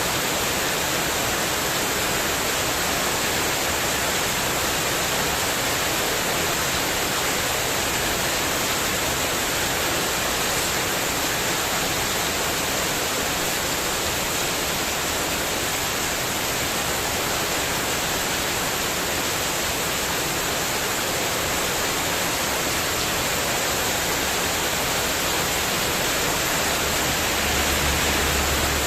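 Heavy rain and wind, a steady dense hiss of downpour on a spandek metal-sheet terrace roof. A low rumble swells in near the end.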